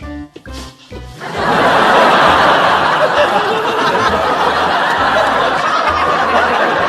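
Sitcom studio audience laughter breaking out about a second in and carrying on loudly, over background music with a low bass line.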